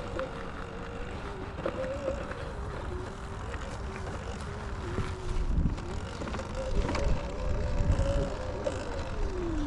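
Dirt bike engine running under way, its pitch rising and falling with the throttle and dropping near the end, with wind on the microphone.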